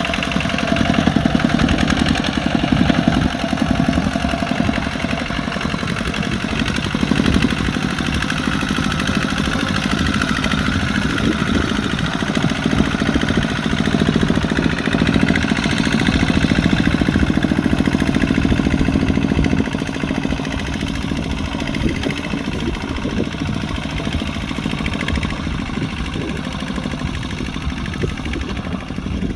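Kubota RT140 Plus single-cylinder diesel engine running steadily under plowing load, with a fast, even firing beat. It eases off a little about two-thirds of the way through.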